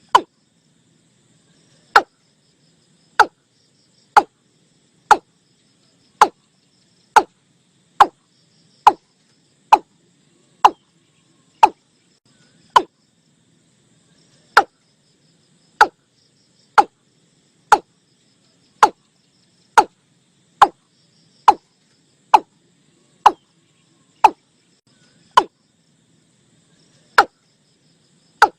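Male watercock calling: a run of short, deep, knocking notes about one a second, each dropping quickly in pitch, with a pause of a couple of seconds midway. A faint chorus of insects sits underneath.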